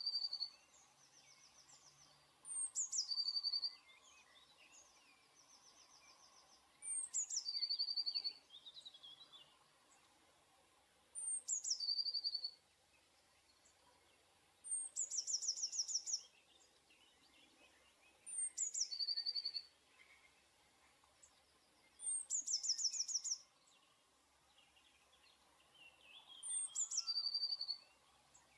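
Blue tit singing: a short phrase about every four seconds, each a high thin falling note followed by a fast trill, repeated seven times. Faint chirps of other birds sit between the phrases.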